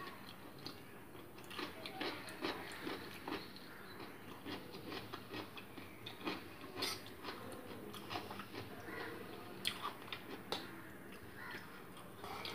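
A person chewing masala Maggi noodles, with irregular clicks and scrapes of a metal fork against the plate.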